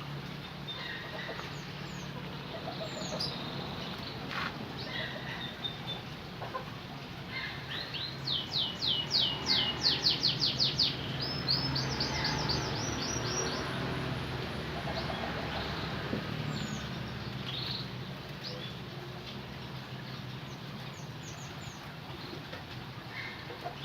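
Canary singing: scattered high chirps, then a fast run of repeated downward-sweeping notes followed by a brief trill in the middle.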